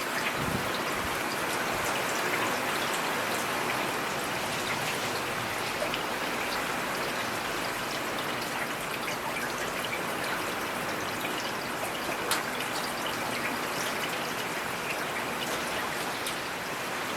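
Steady rain falling in a forest: an even hiss with scattered sharp ticks of single drops.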